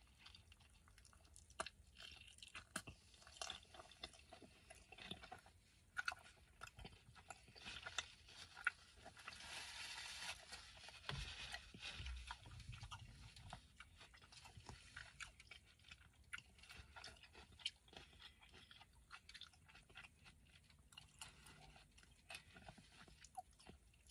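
A person chewing a mouthful of burrito close to the microphone: soft, irregular wet mouth clicks and smacks, louder for a few seconds near the middle.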